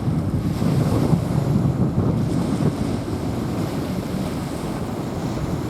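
Small waves washing on a sandy beach, with wind buffeting the microphone; a steady low rushing noise, a little louder in the first half.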